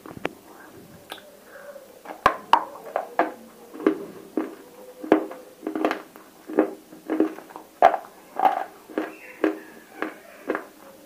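Close-up chewing of clay cubes coated in roasted nakumatt paste: a run of crunching chews about two a second, starting about two seconds in.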